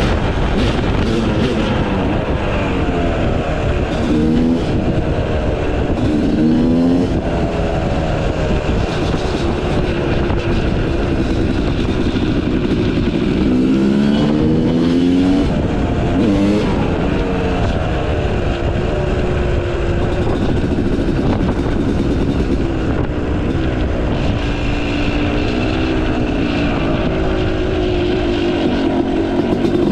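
Yamaha YZ250 two-stroke dirt bike engine with a Pro Circuit exhaust, revving hard as it is ridden. The pitch climbs again and again under acceleration and drops back between pulls.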